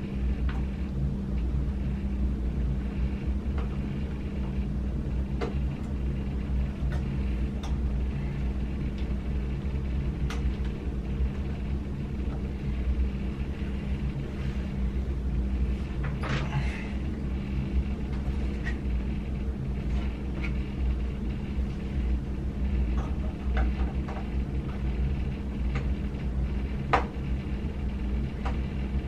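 Steady low hum with scattered light clicks and taps, the clearest about halfway through and near the end.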